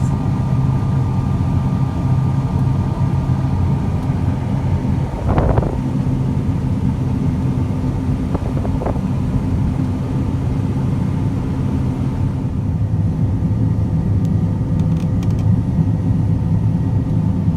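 John Deere S780 combine running steadily while harvesting rye, heard from inside the cab: a constant low machine drone with a faint steady whine over it. A brief louder sound comes about five and a half seconds in.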